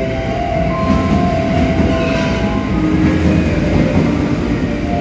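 JR West 683-series electric limited express train rolling past along the platform as it slows to a stop on arrival. Its running noise is a steady rumble with several steady whining tones over it.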